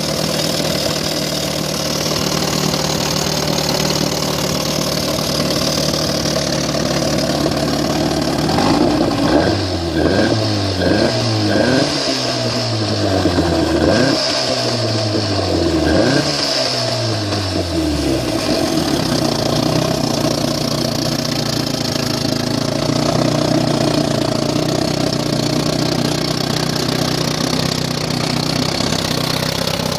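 1960 Elgin 18 hp two-stroke outboard motor idling steadily, then revved in about six quick throttle blips over roughly nine seconds before settling back to a smooth idle.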